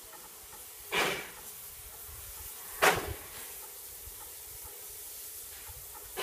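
Steam locomotive on a narrow-gauge railway, hissing steadily while standing. The hiss is broken by three loud, short sharp bursts: about a second in, about three seconds in, and at the very end.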